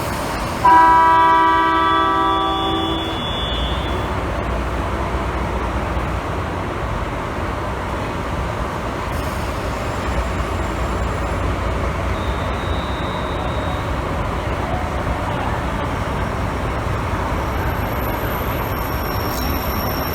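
Diesel locomotive horn, most likely DE10-1742's, sounding once as a chord of several steady tones for about two and a half seconds, followed by a steady low diesel engine rumble.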